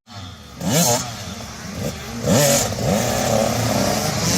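Dirt bike engines at a motocross track: two sharp revs that rise in pitch about a second in and again about two seconds in, then a bike running steadily on the throttle.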